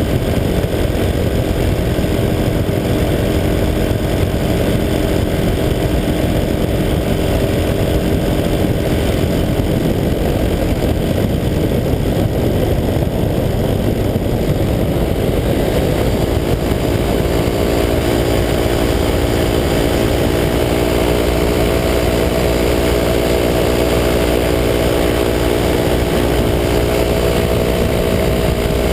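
185 cc EcXtreme paramotor's two-stroke engine and propeller running steadily in flight, loud and buzzing; the engine note rises a little about halfway through.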